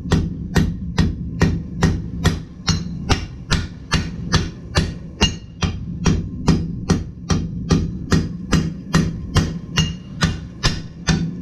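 Hand hammer striking a hot steel sword blank on an anvil in a steady rhythm, about two and a half blows a second, with a steady low hum underneath.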